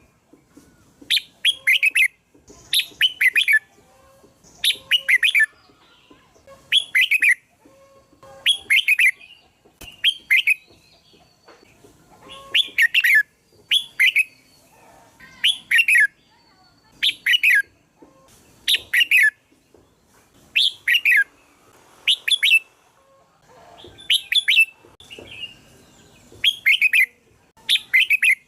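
Red-whiskered bulbul singing: short, bright chirping phrases of a few quick notes, repeated about every two seconds with brief pauses between them.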